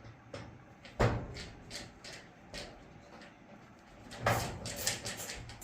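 Screws being started by hand with a screwdriver into a dryer's sheet-metal panel: a sharp knock about a second in, then irregular clicks, and a louder metal clatter around four seconds in.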